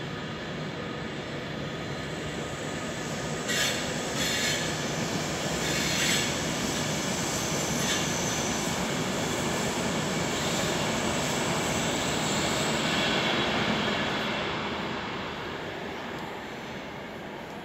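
Intercity passenger train passing through on the main line: a steady rush of wheels on rail that builds to its loudest in the middle and fades near the end, with a few sharp clicks from the wheels a few seconds in.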